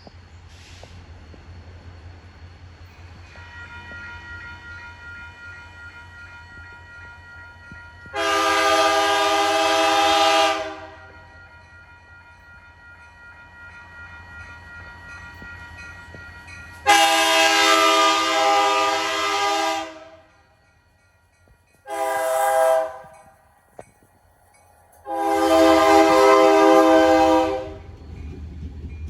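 Locomotive air horn sounding the grade-crossing signal: two long blasts, a short one, then a long one, over a steady low rumble from the train.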